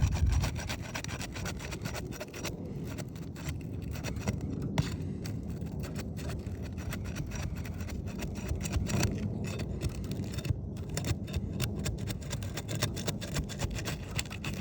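Steel roofing flat bar scraping and prying under asphalt shingles to break the sealant strip, a dense run of short scrapes and crackles.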